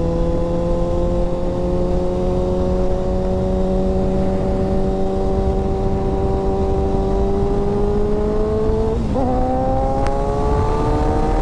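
Motorcycle engine running at speed with wind noise, its pitch rising slowly, then a gear change about nine seconds in, after which it climbs again.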